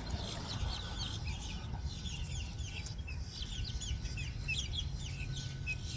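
Birds calling with many short, quick, falling chirps, several a second, over a steady low rumble.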